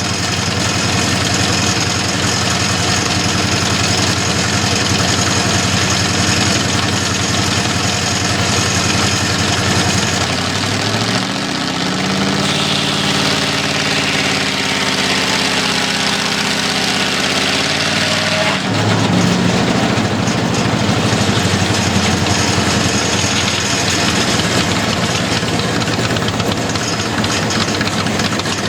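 Engine of a home-built old-time sawmill running steadily. About ten seconds in, its pitch rises and a higher hiss joins it for several seconds, then both drop back at about nineteen seconds.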